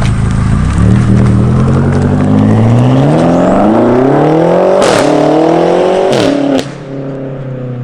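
BMW F90 M5's twin-turbo V8 through an aftermarket cat-back exhaust, accelerating hard: the engine note climbs for several seconds, with a sharp crack at each of two upshifts about five and six seconds in. Then the throttle closes and the note falls and quietens.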